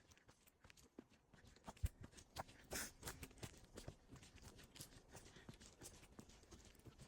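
Faint footsteps crunching along a path, irregular soft clicks and knocks, with one sharper thump about two seconds in.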